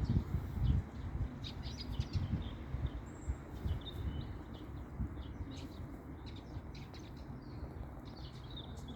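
European starling calling: a run of short clicks and chattering notes, with a brief high whistle about three seconds in. Under it is a low rumble that is strongest in the first second.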